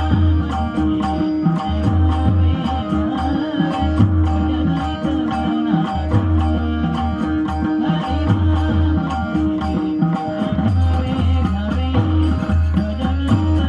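Marathi bhajan music: a dholki drum playing a steady rhythm with small hand cymbals clinking on the beat over held, sustained tones.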